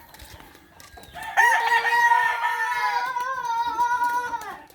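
Rooster crowing: one long crow starting about a second in and lasting about three seconds, holding a steady pitch before it drops off at the end.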